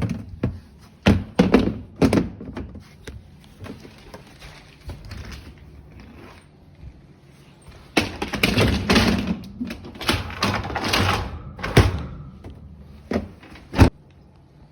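A dishwasher being put back together and set in place: a series of sharp knocks and thunks, with a stretch of scraping and rustling about eight seconds in and one loud knock near the end.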